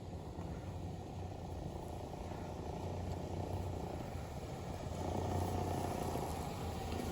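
New Holland tractor's diesel engine running steadily, growing a little louder about five seconds in.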